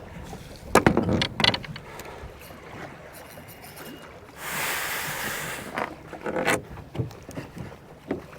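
Knocks and clatter aboard a small flats boat at sea, loudest about a second in and again near the end, with a rush of noise lasting about a second midway.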